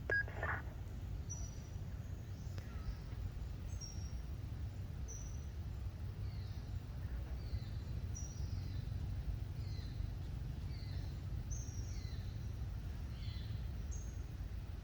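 Birds chirping in the surrounding forest: many short, high chirps that fall quickly in pitch, repeated irregularly throughout, over a steady low rumble.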